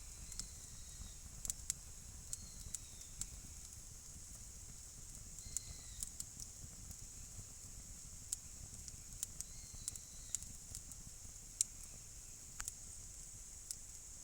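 Wood fire crackling: irregular sharp pops and snaps over a steady high hiss.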